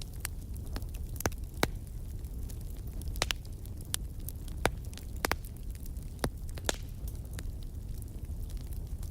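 Wood campfire crackling: irregular sharp pops and snaps, several a second at times, over a steady low rumble.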